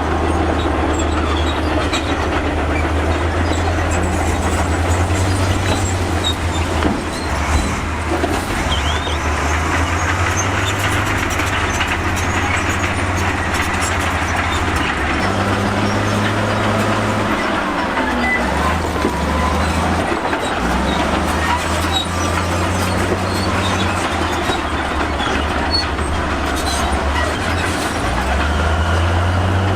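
Crawler bulldozer working: its diesel engine runs steadily under load, the note shifting up and down every few seconds, while the steel tracks clank and squeal.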